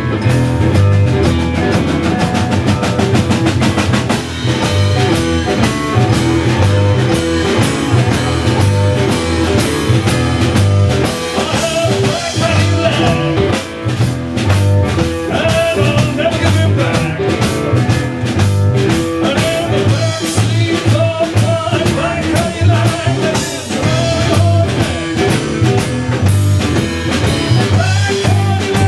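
A blues-rock band playing live: electric guitar over bass and a drum kit keeping a steady beat, loud throughout.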